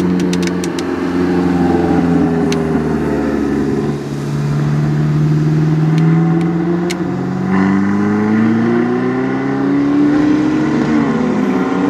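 A supercar's engine being driven hard on a sprint course. It revs, eases off and then climbs steadily in pitch before dropping sharply about eleven seconds in at an upshift. A few short sharp cracks come in the first second and again around six to seven seconds in.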